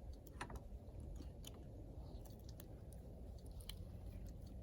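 Scattered light clicks and taps of a grease gun being handled and taken apart to swap in a new grease cartridge, over a steady low background rumble.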